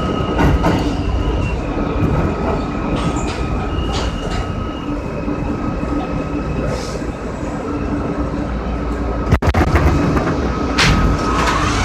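Inside an R160 subway car running through a tunnel: a steady low rumble of wheels on rail, with scattered clicks from the track and a thin, steady high whine or squeal above it. A sudden clunk comes about nine seconds in.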